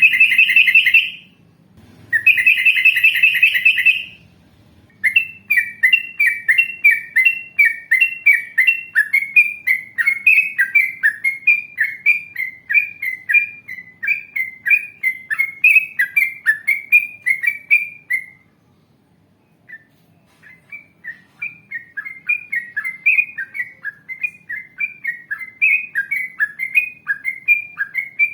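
Yellow-vented bulbul (trucukan) singing: two short harsh chattering calls, then a long run of quick repeated bubbling notes. The song breaks off briefly about two-thirds of the way through and then starts again.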